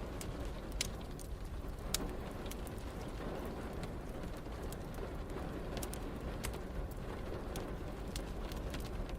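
Wood fire crackling, with irregular sharp pops and snaps over a steady rain hiss.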